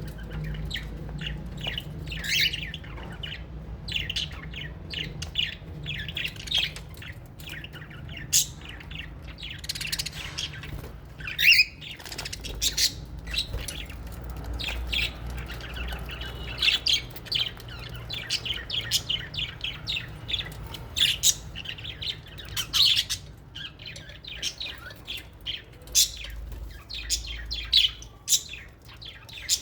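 A flock of small parrots, budgies and lovebirds, chirping and squawking in an aviary: a continuous chatter of many short, overlapping calls, with one louder call about twelve seconds in, over a steady low hum.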